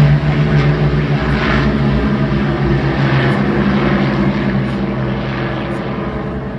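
Propeller aircraft engine droning loudly overhead, a steady note that fades away over the last couple of seconds as the aircraft moves off.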